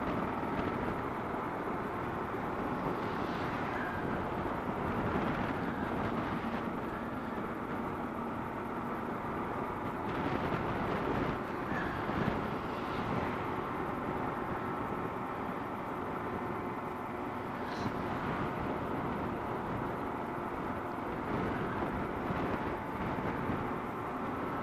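Kawasaki KLR650's single-cylinder engine running steadily at road speed, with wind rushing over the microphone.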